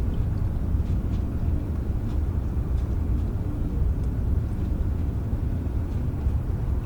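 Steady rain heard as a deep, even rumble, with faint scattered drop ticks on top.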